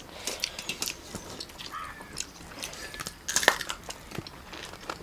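Eating sounds: people chewing rice and quail meat with smacking lips, giving scattered small clicks and wet smacks, with a sharper smack about three and a half seconds in.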